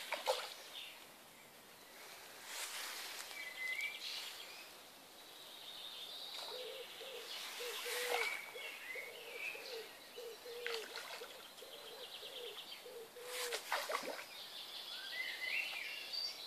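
Birds chirping and calling, with short high calls and trills throughout. A run of about a dozen low, evenly spaced notes, slightly under two a second, comes in the middle. A few brief bursts of noise break in.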